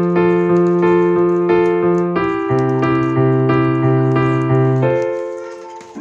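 Background music: a piano playing repeated chords over a held bass note, with a change of chord about two seconds in and fading away near the end.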